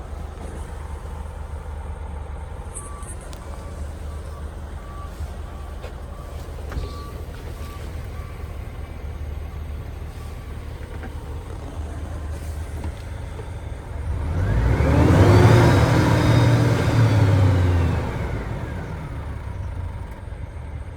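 Scania G 410 truck's 13-litre straight-six diesel idling, then revved once about two-thirds of the way in, the pitch climbing and falling back to idle over some three seconds. A faint beeping repeats for a few seconds before the rev.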